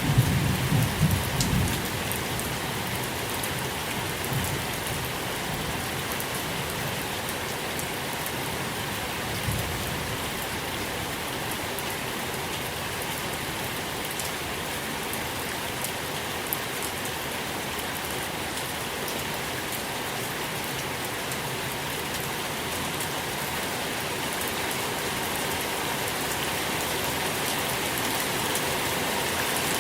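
Steady rain falling, with a low rumble of thunder dying away in the first two seconds and a fainter rumble about ten seconds in.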